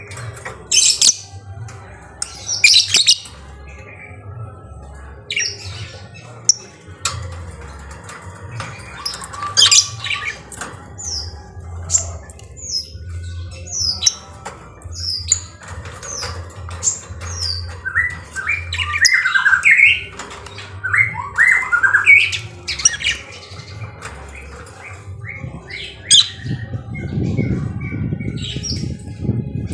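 Lovebirds calling in short, sharp squawks and chirps that come in quick irregular series, loudest in a dense run about two-thirds of the way through. A low rustling noise joins near the end.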